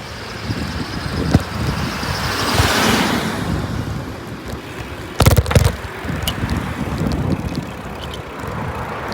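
Wind buffeting the microphone throughout. A vehicle passes, rising and fading about two to three seconds in. About five seconds in comes a brief loud clatter of knocks.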